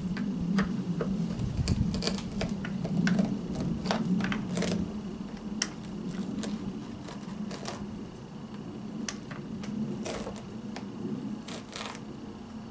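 Irregular small clicks, taps and scrapes of hands and a tool working at a vacuum cleaner's brush roll, clearing tangled hair and thread from it. A low steady hum runs underneath.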